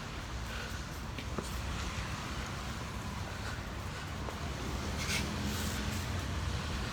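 Street traffic: a steady low hum of cars on the road, with a few faint clicks and an engine note rising out of it about five seconds in.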